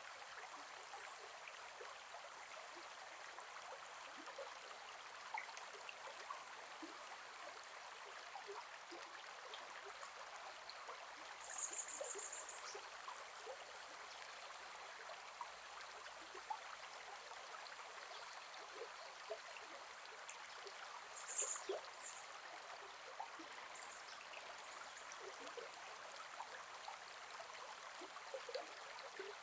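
Gentle forest river flowing: a steady rush of water with small trickles and splashes. A brief high chirp cuts in twice, near the middle and about two-thirds through.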